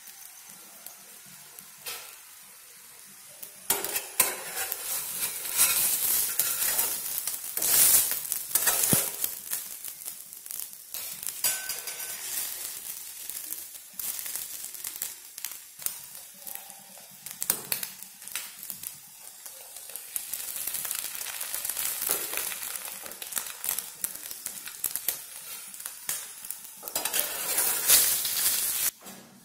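Beaten egg and oil sizzling around a roti frying in a stainless steel pan, quieter at first and louder and crackly from about four seconds in. Near the end a metal spatula scrapes under the roti in the pan.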